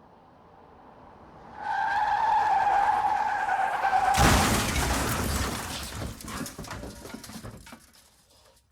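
Sound effect of a car at high speed skidding: the tyres squeal in one steady high tone for about two and a half seconds, then a loud crash hits, followed by debris rattling and clattering as it settles.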